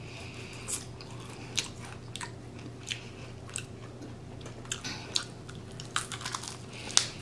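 A person biting and chewing fried pork chop off the bone, with about a dozen short, sharp crunchy clicks and smacks scattered through the chewing.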